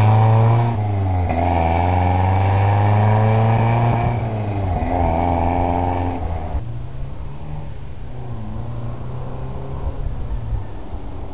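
1970 Lotus Elan +2's twin-cam four-cylinder engine accelerating away after passing close by. Its revs climb, drop back twice at gear changes, about a second in and about four seconds in, then the sound fades to a faint rough drone as the car gets farther off. The owner says it is not running super great.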